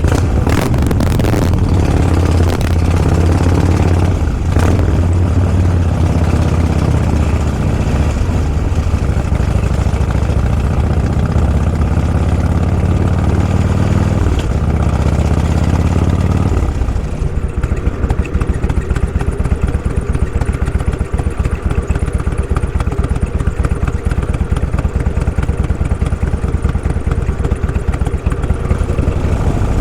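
Motorcycle engine running steadily while under way. A little past halfway the deep hum drops and gives way to a rapid, even pulsing.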